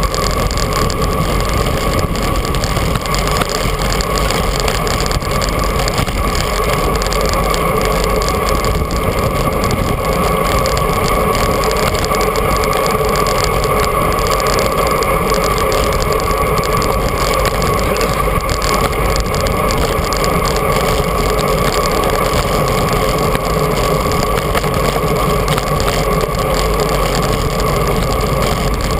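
Steady, loud rush of wind and tyre noise from a bicycle being ridden at speed, with a constant hum running through it.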